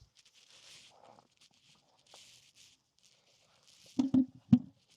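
Wooden beehive parts being handled as a 2x4 bottom board is taken off its stand: faint scuffing and rubbing, then three quick wooden knocks about four seconds in.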